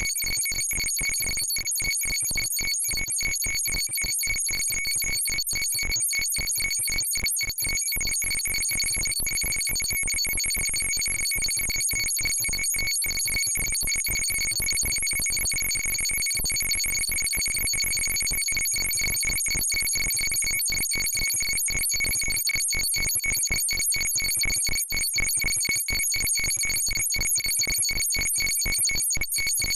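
Homemade electronic sound generator giving a high, steady, ringtone-like tone over a fast, even stutter of pulses, held at an unchanging level throughout.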